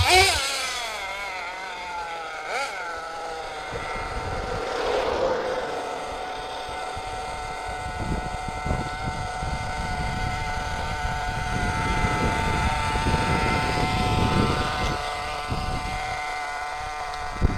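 The .21 nitro engine of a Kyosho USA-1 RC monster truck running with a steady, high buzzing whine. Its pitch swells briefly about five seconds in, and a rougher low rumble joins it in the middle of the stretch. The owner judges the engine to be running a tiny bit lean.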